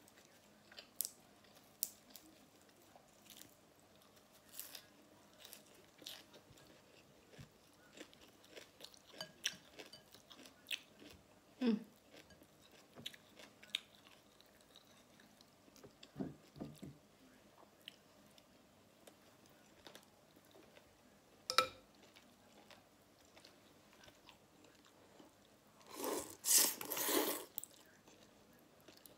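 Close-miked chewing and biting of a pork, shrimp and rice noodle meal: many small wet mouth clicks, with a few sharper bites, and a louder noisy stretch of a second or so near the end.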